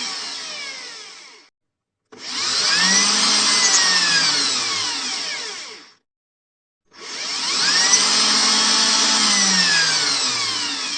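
Electric drill motor run in repeated bursts: it winds down and stops about a second and a half in, then twice spins up quickly, runs for about four seconds with its pitch slowly sinking, and winds down. The gaps between runs are dead silent.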